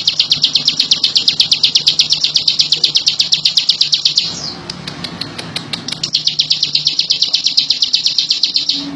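Ciblek (a prinia) singing a long, fast, even trill of sharp repeated notes, about ten a second. It pauses for nearly two seconds, then sings a second trill.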